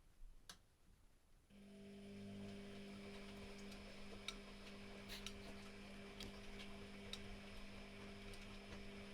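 Privileg Classic 30612 washing machine starts a faint, steady electric hum about a second and a half in, after a single light click. Scattered faint clicks sound over the hum.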